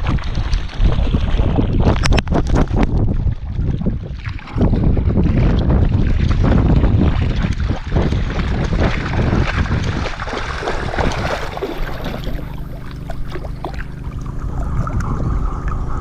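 River water splashing and rushing against a camera carried by a dog wading through it, with wind buffeting the microphone. A steady low hum joins in over the last few seconds.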